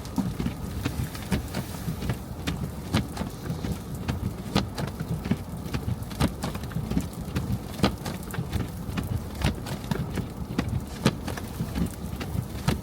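A car driving on snow-covered streets: a steady low rumble of road and engine noise, broken by many irregular sharp ticks and clicks.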